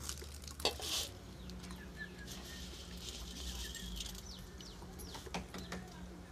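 Small birds chirping in the background, short high chirps scattered through, with a brief rustling burst about a second in and a few faint clicks.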